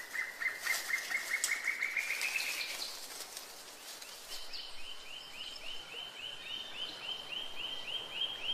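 Birds calling in quick runs of repeated notes. The first run speeds up and rises slightly in pitch, then stops a little under three seconds in. After a short gap, a higher run of about five notes a second starts and carries on.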